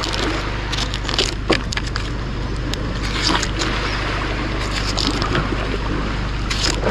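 Irregular cracking, snapping and scraping as a tiny young coconut's husk is broken open by hand to get at the water inside, over a steady rushing background.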